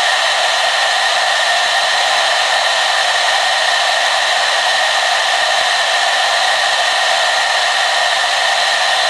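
Hair dryer running steadily: a continuous rushing blow of air with a constant hum and whine, unchanging in level and pitch.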